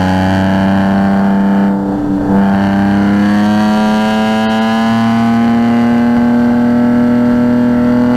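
Car engine pulling hard on track, its pitch climbing slowly and steadily, with a brief dip about two seconds in.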